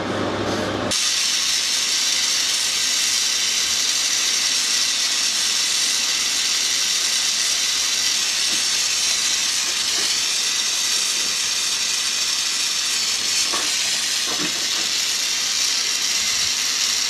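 Oxy-propane torch flame hissing steadily while heating a brass part for silver soldering. The hiss cuts in abruptly about a second in.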